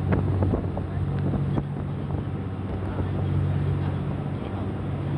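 Sightseeing boat's engine droning steadily as the boat runs, with wind noise on the microphone and a few light knocks in the first couple of seconds.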